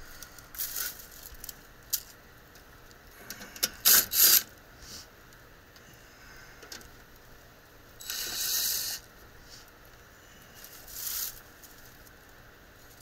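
Hand tools and small metal parts being handled: scattered clicks and clinks, with two sharp metallic clatters about four seconds in, and a brief scraping rustle near the middle.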